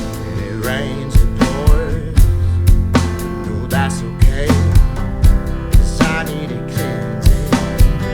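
Rock song with a drum kit played along to it: regular kick and snare hits over a guitar-driven backing track with bending melodic lines.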